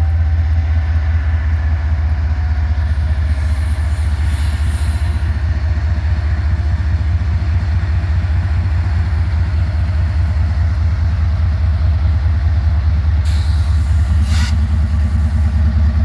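Diesel switcher locomotive's engine running close by as the train moves slowly, a loud, steady, deep rumble. Two short hisses sound, about four seconds in and again near the end.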